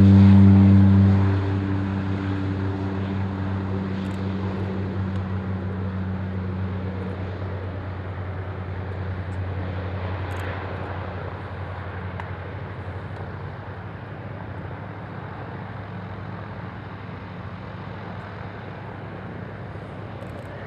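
Propeller light aircraft taking off at full power. Its engine and propeller hum is loud at first, then fades steadily as the plane climbs away, until only a faint rushing noise remains.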